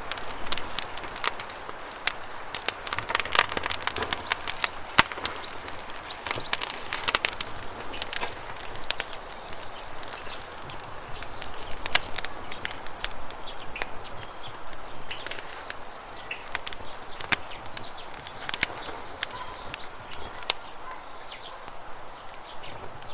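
Campfire crackling, with the steady rush of flowing river water underneath and a few short bird chirps. The crackles come thick in the first several seconds and thin out after.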